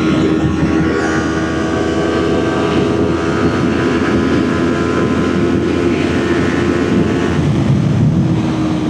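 Kawasaki Ninja 400 parallel-twin engine running hard at high revs under full throttle near top speed, over heavy wind rush. Its pitch creeps up, holds, and eases slightly near the end.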